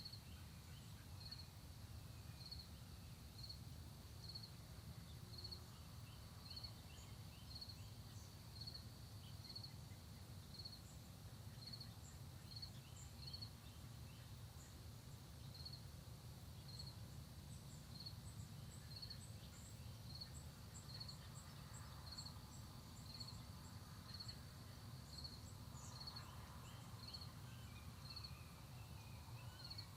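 An insect chirping steadily, one high short chirp about once a second, with faint scattered bird twitters over a low steady background rumble.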